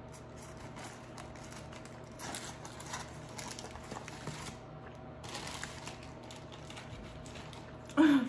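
Quiet chewing of a fried soft shell crab sandwich: faint crunching and mouth clicks over a low room hum, with a brief loud vocal sound right at the end.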